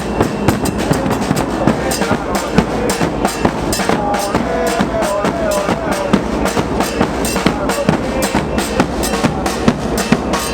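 Supporters' drums beating a fast, steady rhythm, with fans chanting over them.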